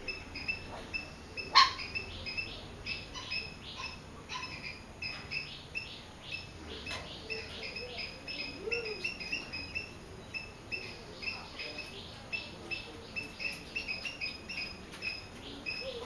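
A small bird chirping: a steady run of short, high chirps at about three a second, with one sharp click a little over a second and a half in.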